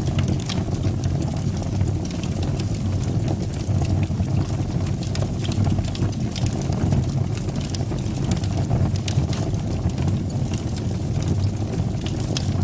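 Fire burning in a fireplace: a steady low rumble of the flames with frequent small crackles and pops.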